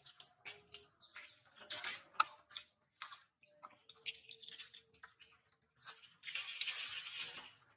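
Monkeys moving and handling things close by: irregular rustling and clicking, with a longer rustle about six seconds in.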